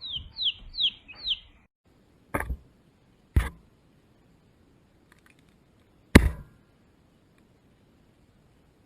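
A bird gives four quick chirps, each falling in pitch. After a short break, three sharp knocks follow, the third the loudest.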